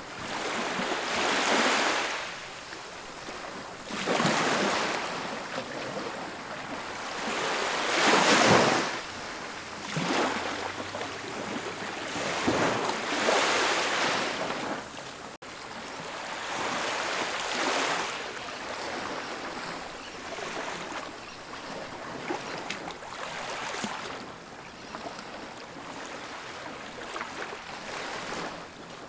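Ocean waves breaking on a beach, each surge of surf rising and falling every few seconds, settling into a steadier wash in the second half.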